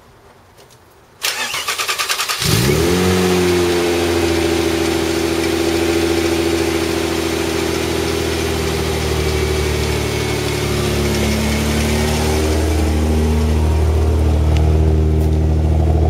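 1993 Mazda MX-3's 1.8-litre K8 V6 cranked by the starter for about a second, catching with a brief rise in revs, then settling into a steady idle through a small aftermarket exhaust.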